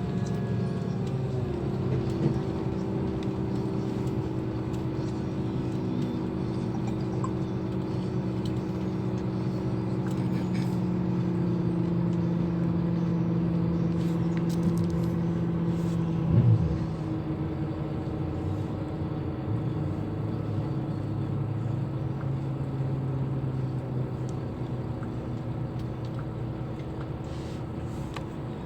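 Scania K340 coach's diesel engine running steadily, its note drifting slowly in pitch. A short knock comes about halfway through, and the engine note drops lower after it.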